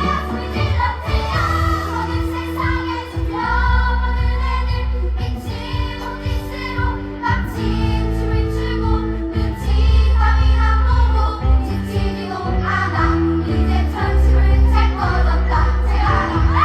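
A song sung by a group of children over a backing track with a strong bass line.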